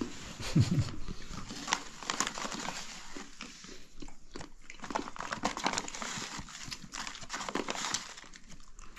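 Close-up crunching of salted roasted chana (chickpeas) being chewed, a dense run of irregular crisp cracks. A brief low vocal sound comes about half a second in.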